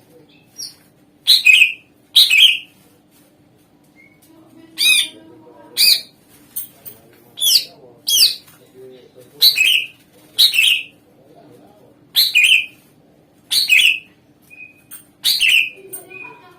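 A cucak ijo (green leafbird) sings loud, sharp downward-sweeping whistled calls, about a dozen of them at a quick, uneven pace, some in pairs. Played as a lure song to set other caged songbirds singing.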